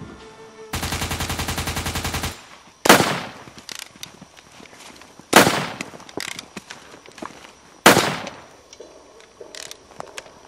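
Gunfire: a burst of very rapid automatic fire lasting about a second and a half, then three loud single bangs about two and a half seconds apart, each echoing away, with scattered small clicks between.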